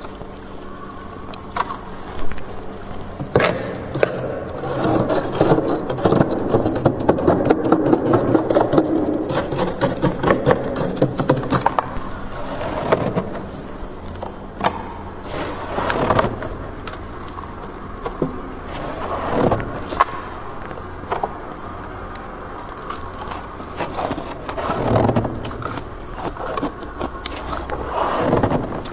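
Freezer frost being scraped, with rapid crackly strokes that are densest from about four to twelve seconds in, then come in scattered bursts.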